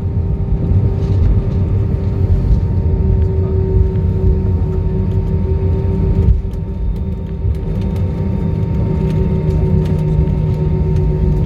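Airbus A320 cabin noise heard from a window seat over the wing as the plane rolls on the runway or taxiway after landing: a steady low rumble with a steady engine hum. The rumble eases noticeably about six seconds in.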